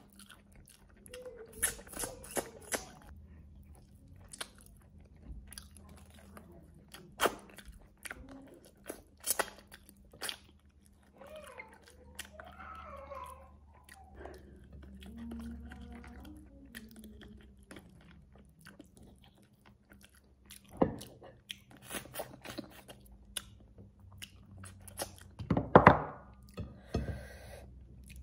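Close-up chewing and biting as goat rib meat is gnawed off the bone by hand, with many short sharp clicks from the mouth. A louder cluster of clicks comes near the end.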